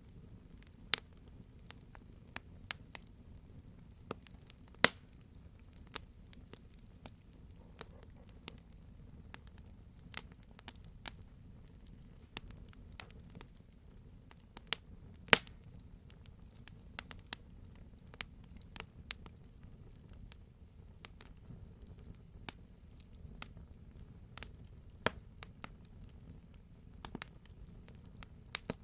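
Wood fire crackling: irregular sharp pops and snaps, a few much louder than the rest, over a low steady rumble of the burning fire.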